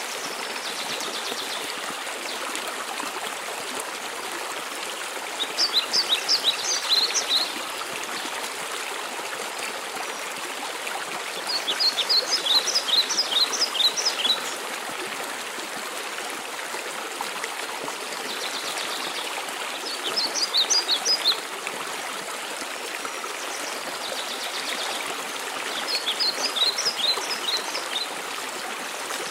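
Steady rushing water of a waterfall, with a songbird repeating a quick phrase of short, high notes about every six to eight seconds.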